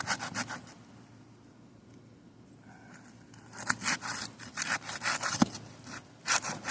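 Rapid back-and-forth scraping, several strokes a second, as asphalt roof shingles are worked loose from their adhesive seal strips. A burst of strokes at the start, a pause of a few seconds, then more strokes from about three and a half seconds in.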